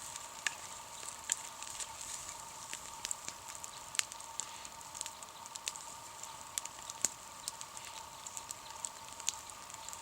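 Wood campfire crackling: sharp pops at irregular intervals over a steady hiss.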